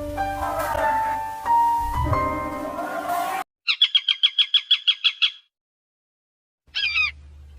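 Background music, then a sudden switch to a bird singing a fast trill of about ten short, repeated high notes. After a pause, a bird call with a few rising-and-falling notes comes in near the end.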